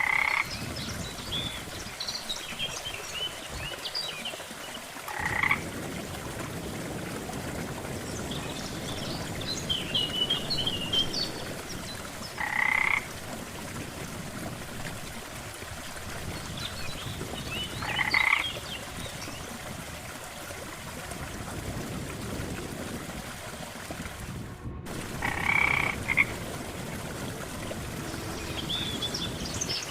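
Frogs croaking at a lake: a loud, short call every five to seven seconds, with higher, quieter chirping calls in between, over a steady water sound. The sound cuts out for an instant about 25 seconds in.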